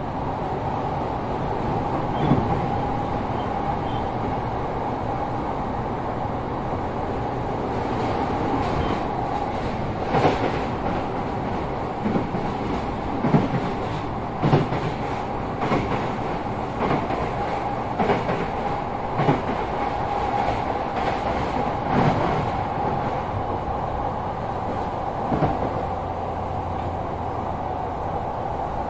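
Sotetsu 12000 series electric train with Mitsubishi IGBT-VVVF control, heard inside a motor car running at a steady speed: continuous rumble of wheels on rail with a steady whine. From about ten seconds in, irregular thumps of the wheels over rail joints come every second or two.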